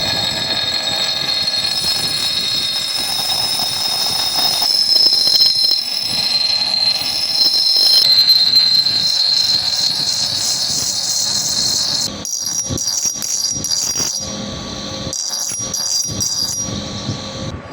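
Electric power tool grinding steel: a steady high-pitched whine with a hissing grind. About twelve seconds in it drops in level and goes on in short, broken passes.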